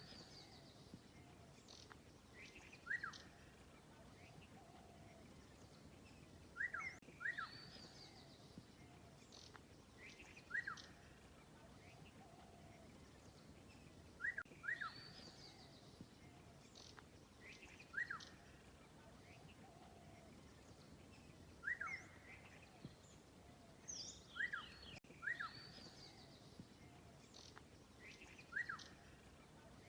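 Birds calling: one bird repeats a short, sharp call, often doubled, every three to four seconds, with fainter, higher chirps from other birds in between over a faint steady background.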